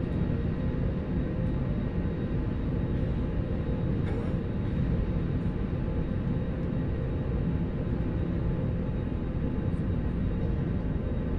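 Steady low rumble inside a jet airliner's cabin after landing, from the engines and air system running, with a faint steady hum over it.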